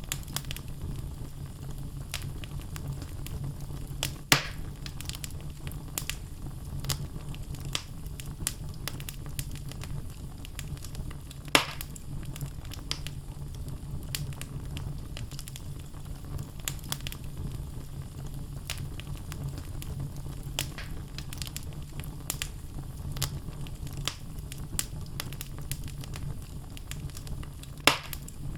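Wood fire burning in a fireplace: logs crackling with frequent small snaps over a steady low rumble of the flames. Three louder pops stand out, about 4 s in, about 12 s in, and near the end.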